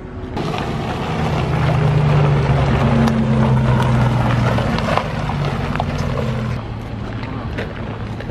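A vehicle engine running close by: a low steady drone that drops to a quieter hum about two-thirds of the way through, with a few sharp clicks over it.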